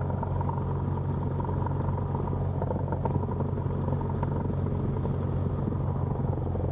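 Cessna 172's engine and propeller running steadily at low taxi power, a constant drone heard in the cabin.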